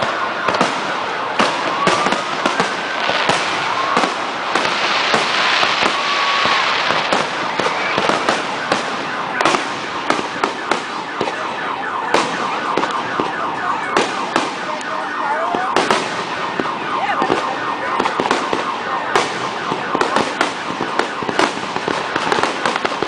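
Aerial fireworks display: a rapid series of bangs from shells launching and bursting, with a dense spell of crackling about five seconds in.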